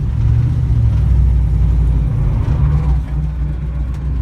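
Engine of an old car, brought back to life after sitting thirty years, running with a steady low rumble that swells slightly about halfway through.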